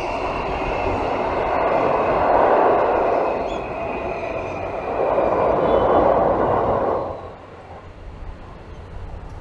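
Seibu Railway electric train running past on the rails: a steady rumble of wheels and running gear that swells twice as the cars go by, then falls away sharply about seven seconds in.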